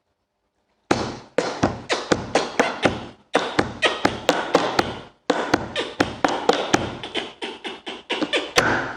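A man beatboxing: rhythmic mouth percussion of sharp clicks and taps in quick phrases, broken by short pauses about a second in, after three seconds and after five seconds.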